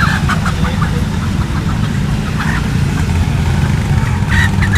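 Bird-market ambience: a steady low rumble, like vehicle traffic or wind on the microphone, with short bird chirps and calls scattered over it, a cluster in the first second and another near the end.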